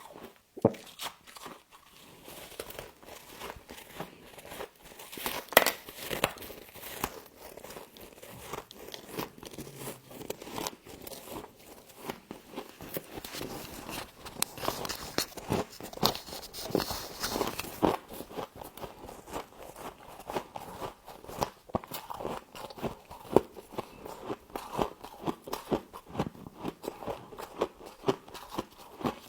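Close-up crunching and chewing of humidifier frost: many sharp, irregular crunches as the ice crystals are bitten and crushed, with a denser crackling stretch in the middle.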